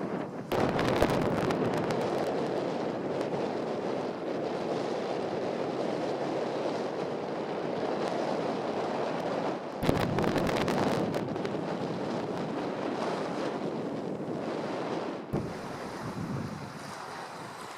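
Wind buffeting the microphone over a steady rush of sea, broken by abrupt jumps in level about half a second, ten seconds and fifteen seconds in.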